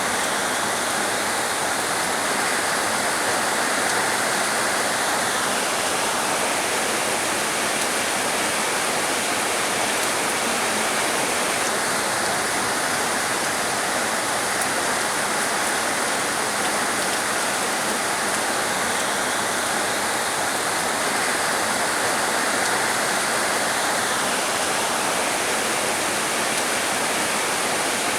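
Heavy rain falling steadily, an even dense hiss without separate drops or thunder.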